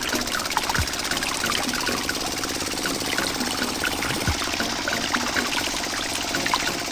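Water trickling and splashing steadily, with many small drips, over the faint steady hum of a small motor.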